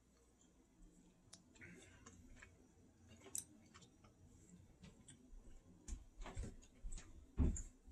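Faint, scattered wet clicks and smacks of chewy candy being chewed. A few louder soft knocks come near the end.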